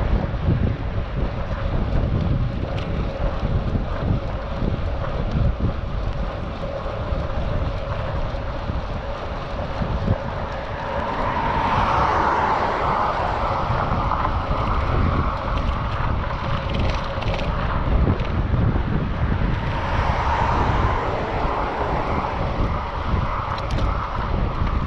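Wind buffeting the action camera's microphone while cycling, a steady low rumble. A brighter rushing hiss swells up about halfway through and again near the end.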